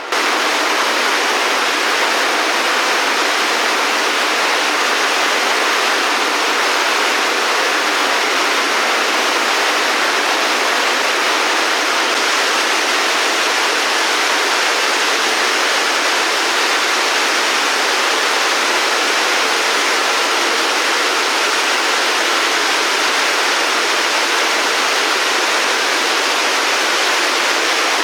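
Steady rush of running water, like a waterfall or fast stream, starting abruptly at the beginning and holding even throughout.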